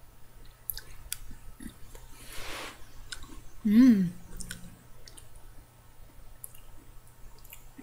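A person chewing a mouthful of ice cream and cookie, with scattered small mouth clicks and a breath, and a short hummed "mm" about four seconds in.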